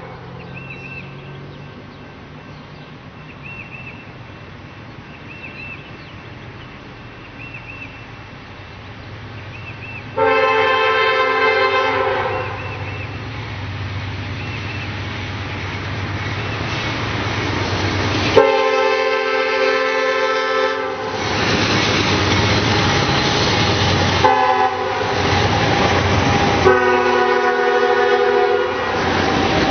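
A freight locomotive's air horn blows the grade-crossing signal: two long blasts, a short one, then a long one, while the train's engine and rail noise grow louder as it approaches. In the quieter first third, a faint bell dings about every second and a half.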